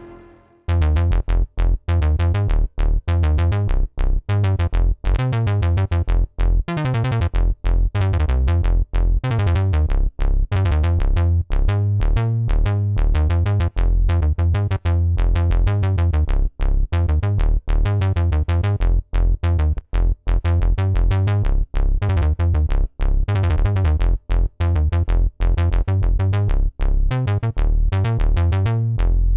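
ESI Xsynth keyboard synthesizer playing a bass-heavy patch as a rhythmic run of short repeated notes, starting about half a second in after a brief silence.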